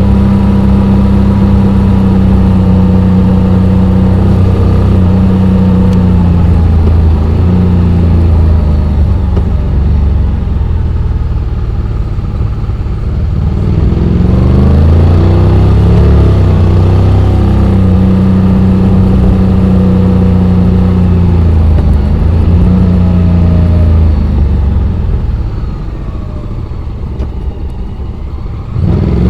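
Honda X-ADV 750's parallel-twin engine running while ridden downhill, its pitch holding steady, then sliding up and down with throttle and gear changes. It drops quieter for a few seconds near the end, then comes back up sharply.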